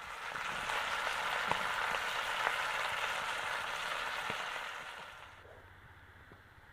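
Food sizzling in hot oil in a pan, with a few light clicks. The sizzle swells in the first second and dies down after about five seconds.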